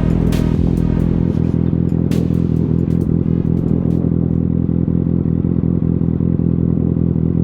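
Motorcycle engine idling at a steady speed, with a few sharp clicks in the first couple of seconds.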